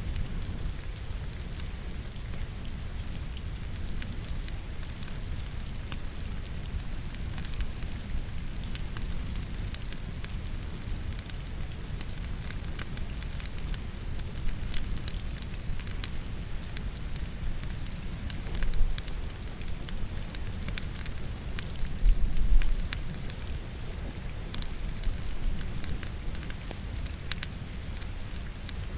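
Logs burning in a fireplace with scattered sharp crackles and pops over a low rumble of flame, mixed with steady rain. Twice past the middle comes a louder low thud.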